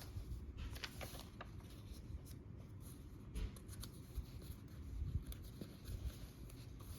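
Pages of a sticker-covered paper journal being turned and handled: soft rustling of paper with a few brief crisp flicks, mostly in the first few seconds.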